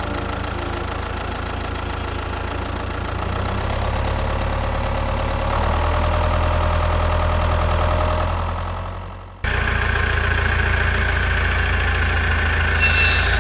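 Tractor engine running steadily with a low, pulsing chug. It fades away about nine seconds in, then cuts back in abruptly.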